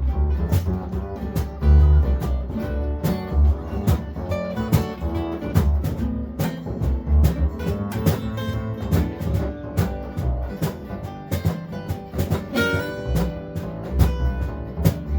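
Instrumental music: strummed and plucked acoustic guitar over a bass line, with a steady beat.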